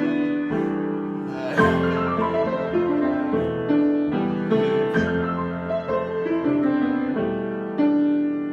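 Solo piano improvisation: melody notes over held chords, each note struck and left to ring and decay, with louder chords about a second and a half, five and nearly eight seconds in.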